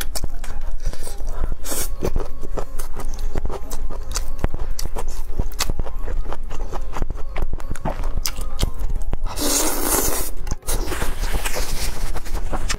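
Close-miked chewing and crunching of crispy fried skewered food, a dense run of crisp crackles and mouth sounds. A louder noisy burst lasts about a second, roughly three-quarters of the way through.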